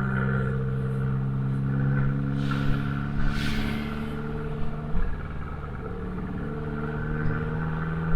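Abarth 595C's turbocharged 1.4-litre four-cylinder running through an Akrapovic exhaust while driving, holding a steady note that drops to a lower pitch about five seconds in. A brief hiss comes about two and a half seconds in, with a few short sharp sounds.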